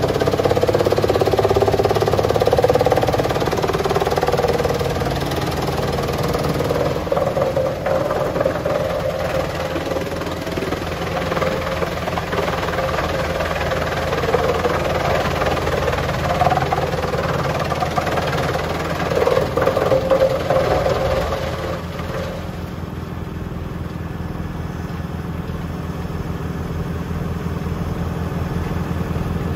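Tractor diesel engine running steadily, with a wavering mid-pitched whine and rushing machinery noise over it that stop about three quarters of the way through, leaving the engine running alone.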